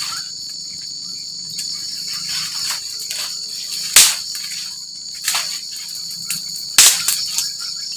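Insects calling in a steady high drone at two pitches. Sharp clicks or knocks cut through it a few times, loudest about four seconds in and again near the end.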